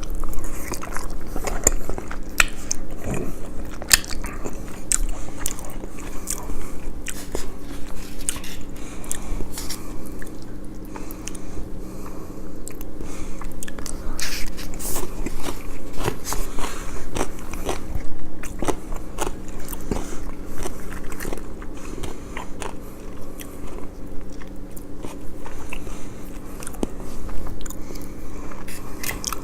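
Close-miked eating of crispy fried chicken: continual sharp crunching bites and wet chewing, over a faint steady low hum.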